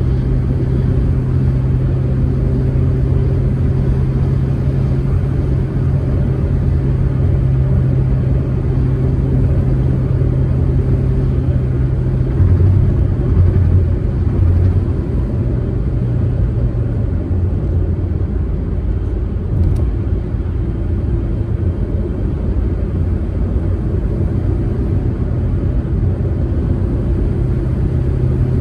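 Proton Saga's four-cylinder engine droning steadily at cruise over low road rumble. The engine note eases a little about two-thirds of the way through and comes back near the end.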